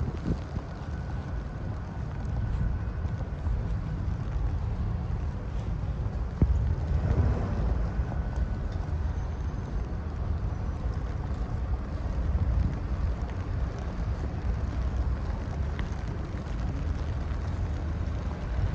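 Blizzard wind buffeting the microphone: a steady low rumble, with a broader, louder swell about seven seconds in.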